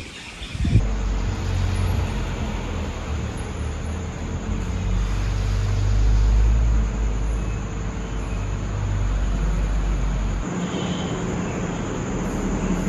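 Steady low rumble of a moving vehicle, swelling slightly around the middle and changing character near the end.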